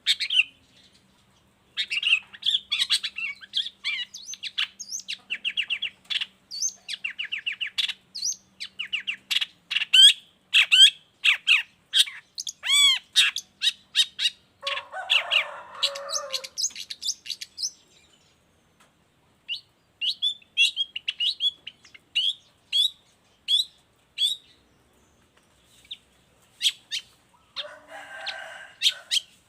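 Long-tailed shrike (cendet) in full song: a fast, varied run of sharp chirps and whistled notes, broken by short harsh rasping phrases about halfway and again near the end, with a couple of brief pauses.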